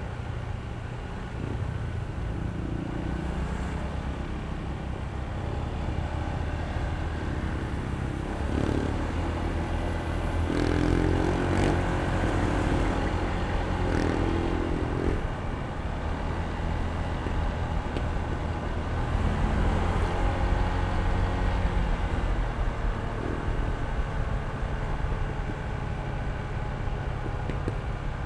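Honda ADV160 scooter's single-cylinder engine running under way, with wind and road noise. It gets louder about ten seconds in and again around twenty seconds in.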